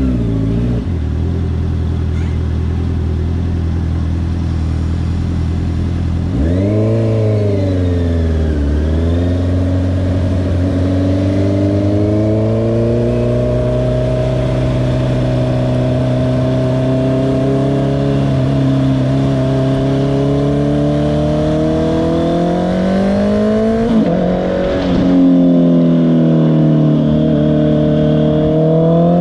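Honda CBR650R inline-four motorcycle engine running low and steady for the first few seconds, then revving up and down. It then pulls through a long, steady rise in pitch under acceleration, drops briefly at a gear change about 24 seconds in, and climbs again near the end.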